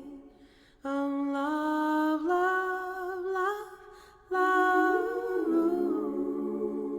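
Wordless humming of a song: a sustained, slow melody in two phrases, the first starting about a second in and the second about halfway, each fading away at its end.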